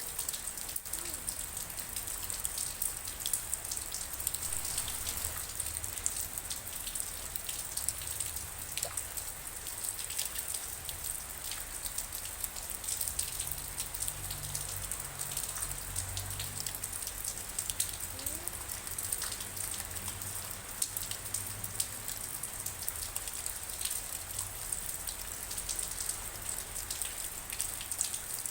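Steady rain falling, with many separate drop hits heard through the even hiss.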